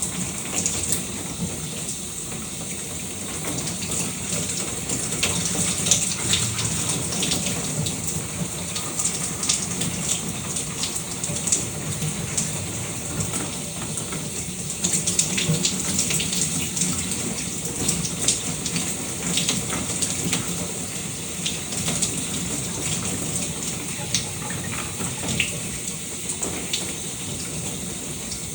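Shower water running steadily, with irregular splashes and spatters throughout.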